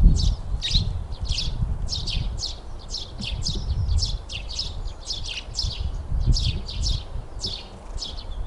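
Small birds chirping busily: a steady run of short, high chirps, several a second, over a low rumble.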